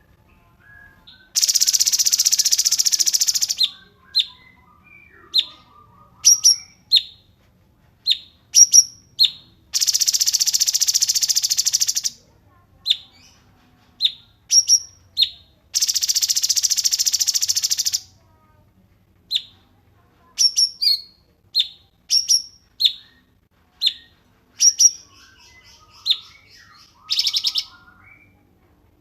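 A small songbird singing: sharp, high single chirps scattered throughout, broken by three long, buzzing trills of about two seconds each and a shorter trill near the end.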